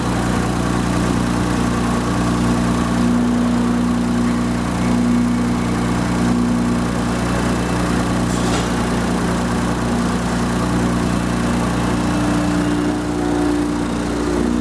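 2017 Infiniti Q50's 3.0-litre twin-turbo V6 idling steadily at an even pitch, with no revving.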